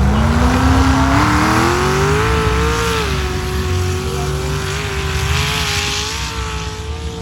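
A truck's engine revving up over about three seconds and then held at high revs at full throttle, as on a mud bog run.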